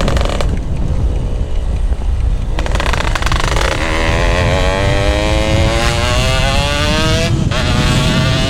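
Yamaha RX-King's single-cylinder two-stroke engine running through a GRT18 aftermarket exhaust, pulling under acceleration: its pitch climbs steadily, drops out briefly for a gear change near the end, then climbs again, over a heavy low rumble.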